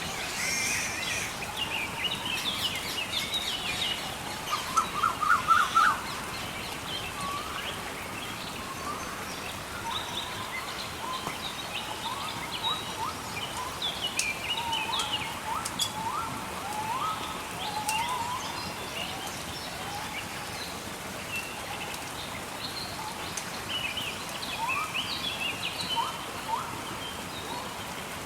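Several birds singing and chirping over a steady hiss of water, with a louder rapid trill of repeated notes about five seconds in. A few faint crackles sound now and then.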